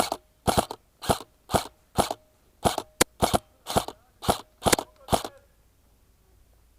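Specna Arms SA-B05 airsoft electric rifle firing about a dozen single shots in semi-auto, roughly two a second, each a short sharp crack of the gearbox cycling. The firing stops about five seconds in.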